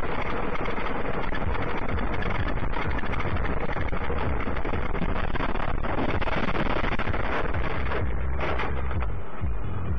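Steady road and engine noise from a moving vehicle, with a heavy low rumble of wind and tyres, as recorded by a dashcam.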